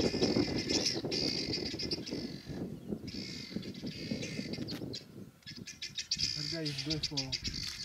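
Outdoor bird chorus of rapid high chirps and calls, with a low, wavering repeated call about six and a half seconds in.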